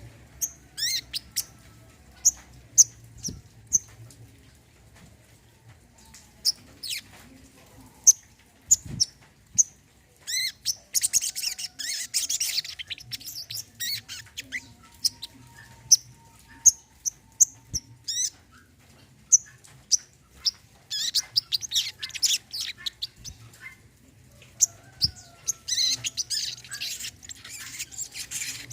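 Sunbird calling: sharp, high chirps at irregular intervals, broken by bursts of fast twittering song about a third of the way in, again past two-thirds, and near the end.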